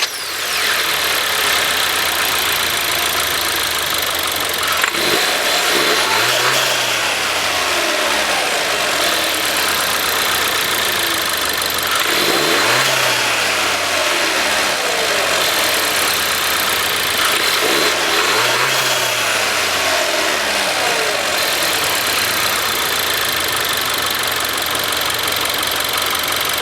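The 2015 Volkswagen Golf's 1.4 TSI turbocharged four-cylinder engine being revved while stationary, held up against a rev limit of around 4,000 rpm. It rises and falls in pitch three times, about six seconds apart.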